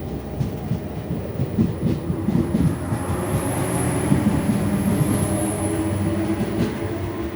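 Train running along the platform track: a continuous rumble and clatter of wheels, with a thin high whine swelling and fading in the middle.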